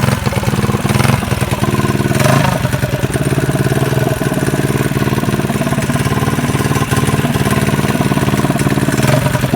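Built 212cc Predator Hemi single-cylinder engine on a minibike running, mostly at a steady idle with a few brief swells in revs.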